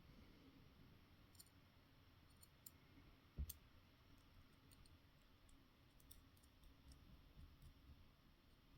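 Near silence with faint scattered clicks and one soft knock about three and a half seconds in, from small parts being handled during hand assembly.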